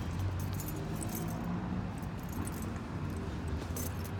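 Keys jingling and clicking in short bursts over a steady low hum.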